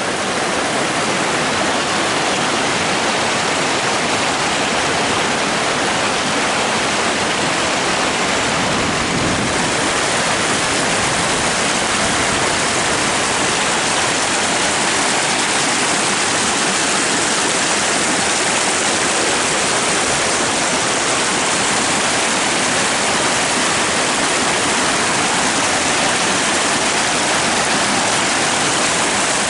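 Waterfall on a river, water pouring and splashing in a steady, loud rush.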